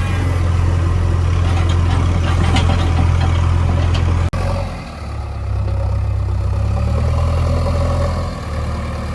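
Heavy diesel engine running steadily with a deep, even drone. The sound breaks off abruptly about four seconds in and resumes with a changed drone.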